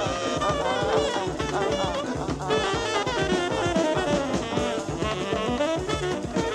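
Instrumental jazz break: a saxophone-led horn line playing quick, bending runs over a steady drum kit beat.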